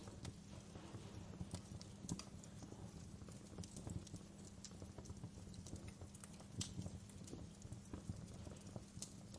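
Wood fire crackling in a fireplace: irregular sharp pops and snaps over a steady low rumble, with the loudest pops about two seconds in and again near seven seconds.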